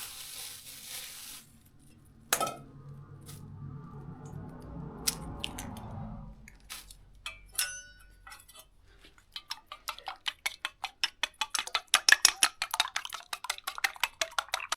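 Utensil clinking rapidly and evenly against a bowl, about five strokes a second, in the second half: eggs being beaten for frying. Before that, a steady hiss that stops after about a second and a half, a sharp knock, and scattered clinks of cookware.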